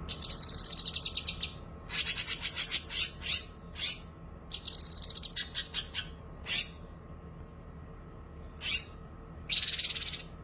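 White-rumped shama (murai batu) singing: bursts of rapid, high-pitched trills, some gliding down, and sharp single whistled calls, with short pauses between phrases.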